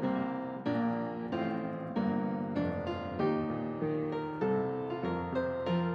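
Piano playing slow chords, a new chord struck about every half second to second and left to ring.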